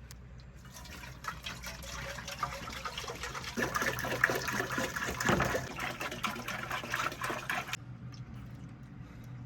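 Water running or pouring for about seven seconds, louder in the middle, then stopping abruptly.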